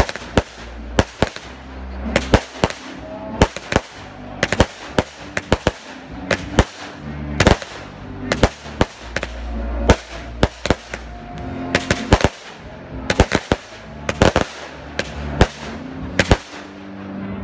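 Aerial fireworks going off in quick succession: a low rumble of launch roughly every two to three seconds, each followed by a cluster of sharp bangs and crackles as the shells burst.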